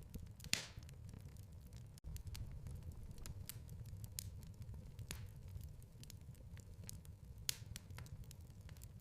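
Wood fire burning in a fireplace: a soft, steady low rumble of flame with crackles and sharp pops, the loudest about half a second in and others near five and seven and a half seconds. The sound drops out for an instant about two seconds in.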